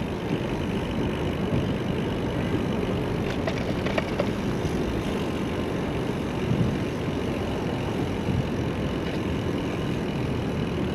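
Steady road traffic noise from cars and trucks alongside a moving bicycle, with a couple of faint clicks near the middle.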